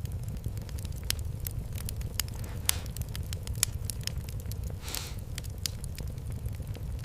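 Wood fire crackling in a fireplace: irregular sharp pops and snaps over a low, steady rumble, with a brief hiss about five seconds in.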